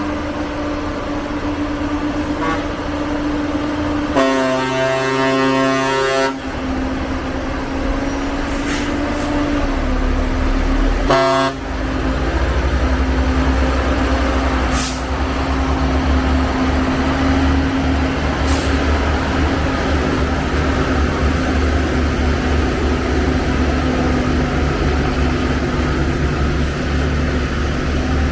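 Heavy tractor-truck engine running with a steady drone. A vehicle horn sounds for about two seconds about four seconds in and again briefly about eleven seconds in, after which the engine's low rumble grows heavier as it works under load.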